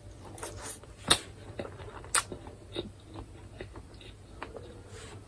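A person chewing chicken close to the microphone: wet, crackly mouth sounds with scattered small clicks, and two sharper clicks about one and two seconds in.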